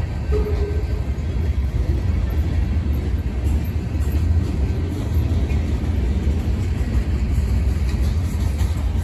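Freight train cars rolling past, a steady low rumble with no distinct wheel clicks.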